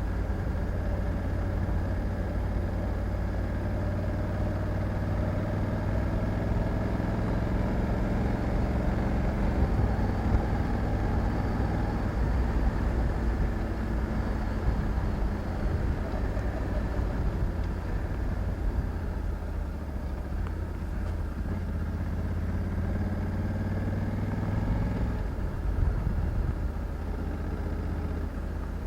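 Honda Africa Twin 1100 DCT's parallel-twin engine running while riding, its note rising and falling with the throttle, and dropping sharply once near the end.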